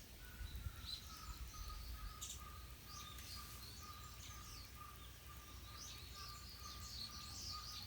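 Faint outdoor ambience: small birds giving short high chirps, with a thin steady tone that drifts slowly lower, over a low rumble.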